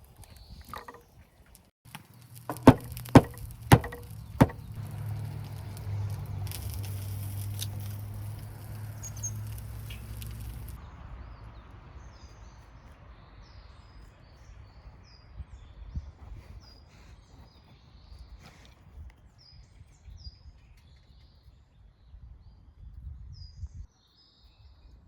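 Four sharp knocks in quick succession, then a low steady rumble for several seconds that stops abruptly, then small birds chirping faintly now and then.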